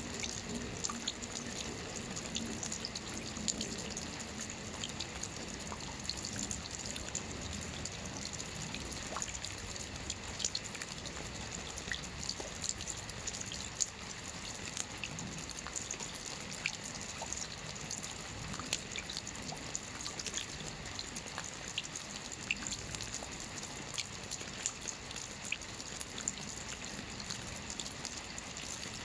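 Soft rain falling on a roof: a steady hiss of rain dotted with many small drop ticks, a few louder than the rest.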